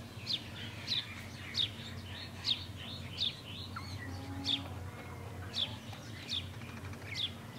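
A small bird chirping over and over, short sharp falling chirps about once a second, with a low steady hum underneath.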